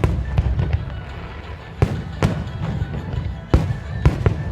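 Fireworks display: aerial shells bursting in a run of sharp bangs, several in quick succession from about two seconds in, over a steady low rumble and background music.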